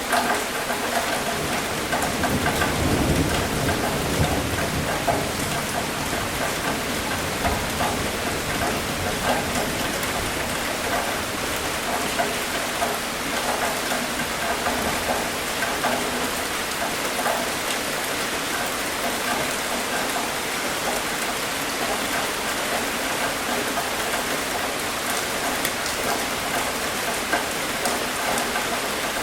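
Steady rain falling, with a low rumble of thunder swelling and fading about two to five seconds in.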